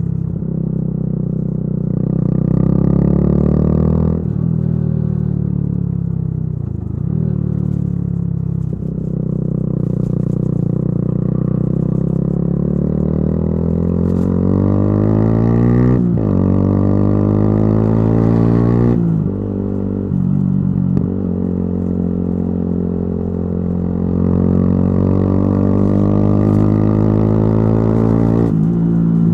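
Yamaha YZF-R125's single-cylinder four-stroke engine through a modified aftermarket exhaust, heard while riding. The revs climb in each gear and the pitch drops sharply at several upshifts, with a long pull from about nine seconds in to a shift at about sixteen seconds, then steadier cruising revs later.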